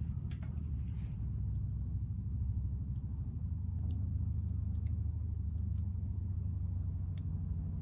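Wood fire crackling with sparse, irregular pops and snaps, over a steady low rumble.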